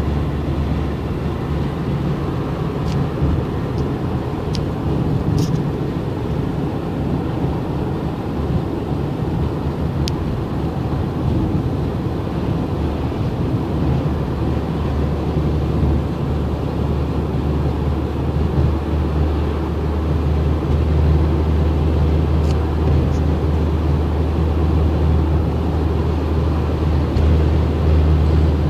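Car driving along at a steady pace: a steady low rumble of engine and road noise that grows a little louder about twenty seconds in, with a few faint ticks.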